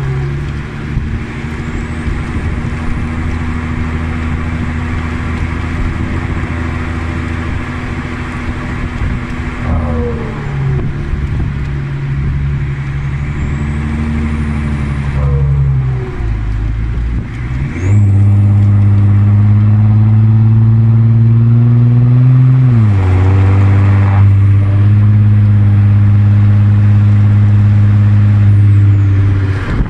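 Audi A4 B7's 3.0 TDI V6 diesel running through straight pipes while being driven. The engine note drops in pitch at gear changes about ten, fifteen and twenty-three seconds in. It turns much louder from about eighteen seconds as the engine pulls under load, then falls away near the end.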